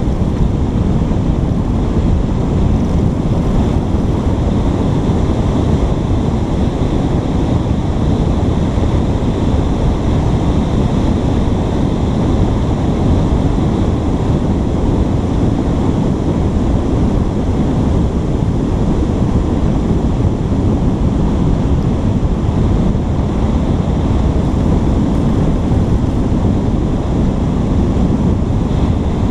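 Loud, steady rush of wind on a GoPro's microphone, deep and unbroken throughout.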